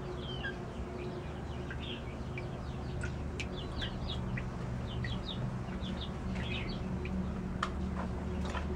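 Birds calling in the background: many short, high chirps scattered throughout, over a steady low hum.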